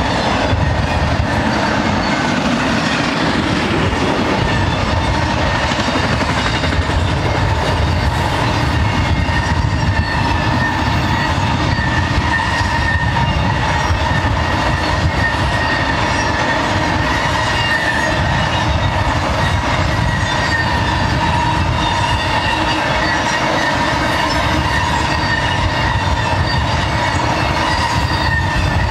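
BNSF intermodal freight train's cars, loaded with truck trailers, rolling steadily past: steel wheels running over the rails, with a steady high-pitched ring through the noise.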